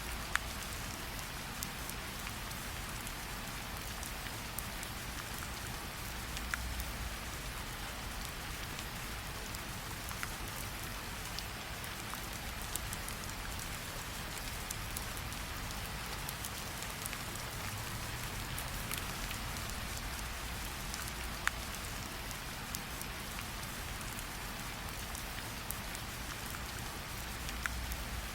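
Steady rain falling, an even hiss, with a campfire crackling in occasional single sharp pops.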